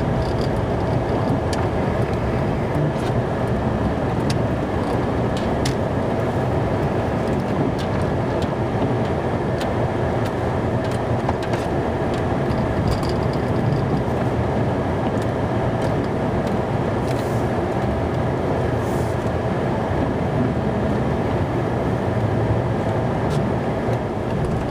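Snow plow truck running steadily, heard from inside the cab while it plows and back drags a driveway, with scattered light clicks and knocks over the engine and road noise.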